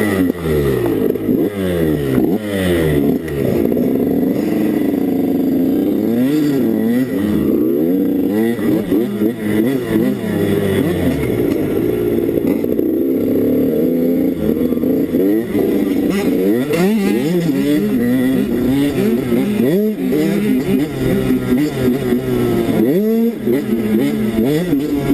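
85cc two-stroke KTM 85 dirt bike engine revving up and down over and over as it is ridden, its pitch rising and falling every second or two.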